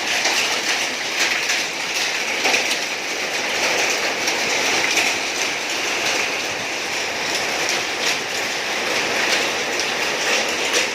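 Hailstorm with rain: a dense, steady clatter of many small hailstones striking hard surfaces.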